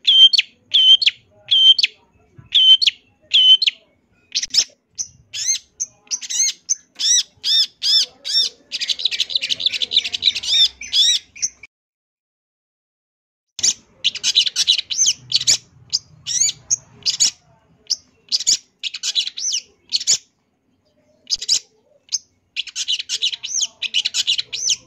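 Long-tailed shrike (cendet) singing a varied song of mimicked phrases. It opens with a run of short whistled notes, about two a second, then breaks into fast chattering phrases. After a pause of about two seconds near the middle, it goes on with more fast chattering.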